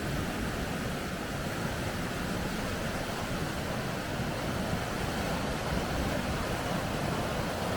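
Steady rushing noise of water running through rapids, even and unbroken.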